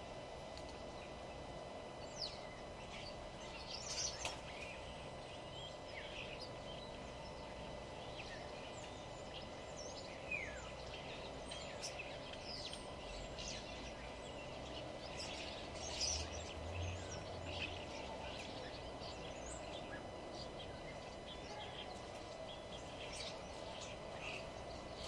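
Several wild birds chirping and singing, with short calls, quick glides and trills scattered throughout, over a steady background hum.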